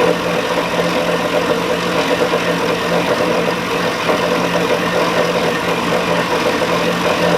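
Metal-cutting bandsaw running steadily with a coarse-toothed bimetal blade partway through a solid 6-inch steel bar: a constant hum with a steady cutting rasp.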